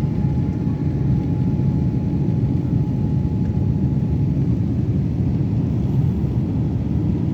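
Steady low drone of an airliner's engines and rushing airflow, heard inside the passenger cabin, with a faint thin steady tone that fades out about four seconds in.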